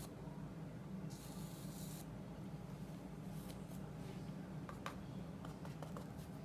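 A paintbrush stroking oil paint across paper: one hissing scrub of about a second starting about a second in, then a few faint light clicks and taps. A low steady hum runs underneath.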